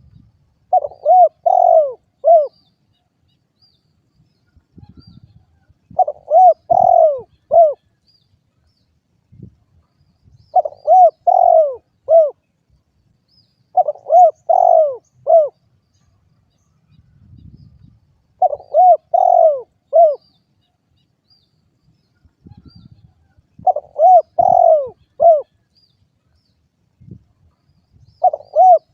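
Spotted dove (derkuku) cooing: a repeated phrase of about four hooked, mid-pitched coos, each phrase lasting about a second and a half and coming back every four to five seconds, seven times.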